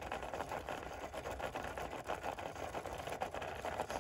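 Radio-controlled rock crawler's small electric motor and gear drivetrain whirring as it creeps along, with a rapid run of fine ticks.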